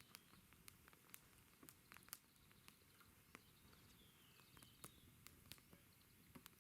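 Wood campfire crackling quietly: scattered sharp pops and snaps at an irregular pace.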